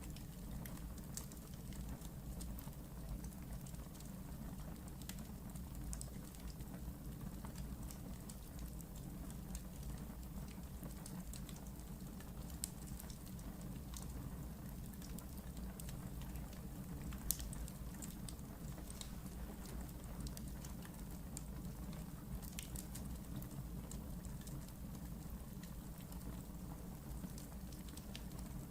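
Wood fire burning in a fireplace: a steady low rumble of the flames with scattered sharp crackles and pops, the loudest pop about seventeen seconds in.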